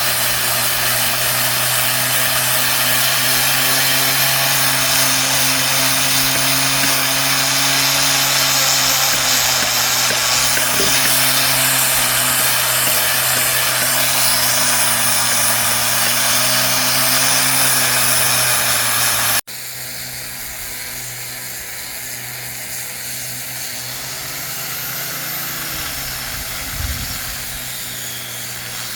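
Handheld power tool working wood, running steadily with a motor hum and a hiss from the cutting. About two-thirds of the way through it cuts abruptly to a quieter stretch of the tool, with small changes in pitch.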